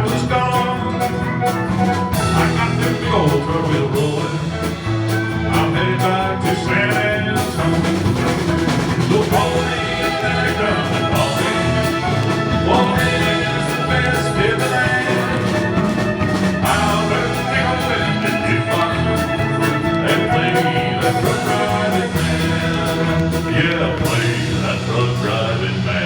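Live country band playing an instrumental passage with a steady drum-kit beat.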